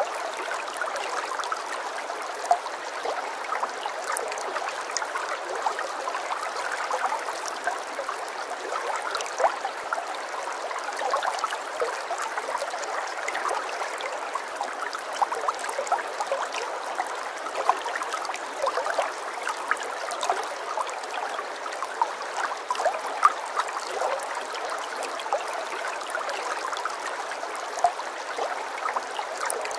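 Running water of a small stream, a steady babbling with many small splashes and gurgles.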